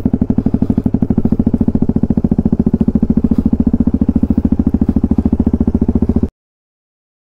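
Yamaha WR250X's single-cylinder four-stroke engine running at low, steady revs as the bike rolls slowly, breathing through a muffler taken from a Kawasaki Ninja; an even, rapid train of exhaust pulses. The sound cuts off abruptly about six seconds in.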